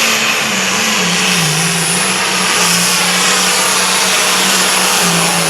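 Competition pulling tractor's engine running hard under load down the track, its pitch dipping and recovering and then starting to sag near the end, with a steady high whine above it.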